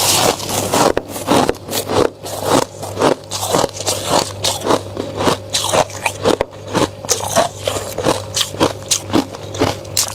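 Flaky freezer frost being bitten and crunched: an irregular run of crisp crunches, a few each second.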